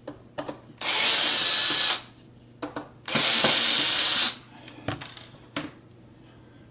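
A power drill/driver running twice, about a second each time, driving cabinet hinge screws, with light clicks and knocks of handling between the runs.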